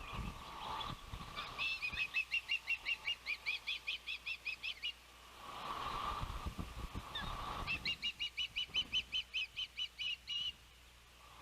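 Osprey calling: two long runs of rapid, high, whistled chirps, about five a second, with a pause of a couple of seconds between them. Wind buffets the microphone underneath.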